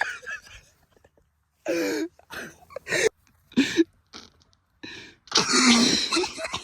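A person coughing and clearing the throat in several short bursts, the longest near the end.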